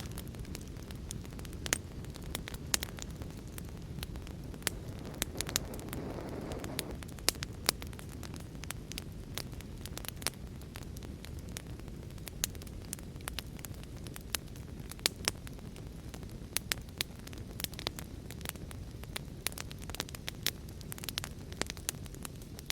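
Wood fire crackling, with frequent sharp pops and snaps, over a steady low rush of storm rain. About six seconds in there is a brief swell of hissing.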